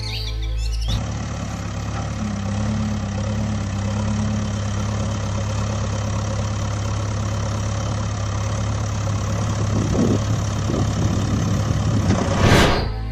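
Heavy vehicle engine running steadily at idle, with a steady low hum. A short loud burst of noise comes just before the end.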